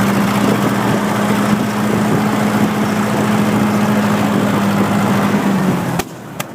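Case 830 tractor's four-cylinder gasoline engine running steadily, with wind on the microphone. About six seconds in its sound drops off suddenly and two sharp pops follow: the engine backfiring.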